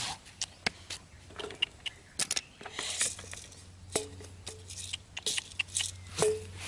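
Irregular clicks, taps and short scraping, rustling noises, with a couple of brief faint squeaky tones, over a steady low hum.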